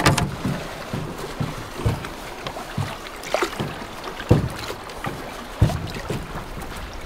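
Irregular knocks and thumps on a canoe as people climb aboard and shift their weight, with water and wind noise underneath; sharp knocks about four and a half and five and a half seconds in.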